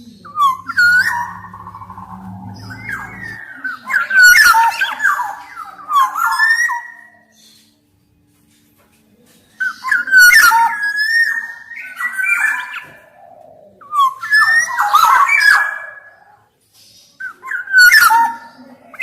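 Black-naped oriole singing: loud, fluid whistled phrases of rising and falling notes, about five bursts separated by short pauses.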